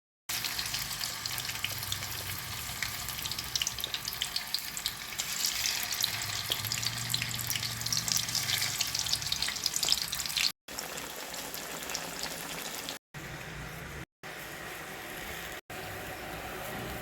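Food frying in hot oil in a pan: a dense crackling sizzle that eases to a quieter, steadier hiss after about ten seconds. The sound breaks off abruptly for an instant several times.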